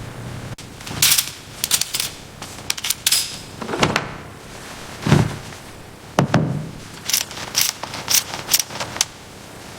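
Irregular clicks and knocks of tools working on car parts, with three heavier thuds about four, five and six seconds in.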